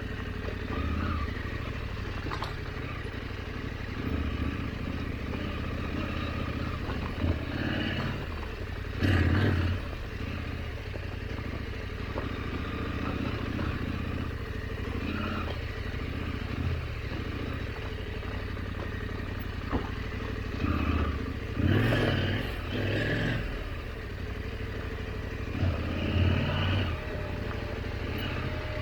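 KTM 890 Adventure's parallel-twin engine running at low trail speed, with a few short surges of throttle and scattered clatter from the bike on rough ground.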